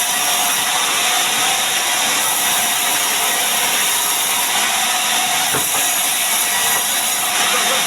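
Power saw running steadily while cutting mahogany timber into beams.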